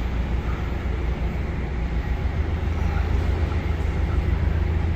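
A narrowboat's diesel engine running steadily at cruising speed, a continuous low rumble, inside a canal tunnel.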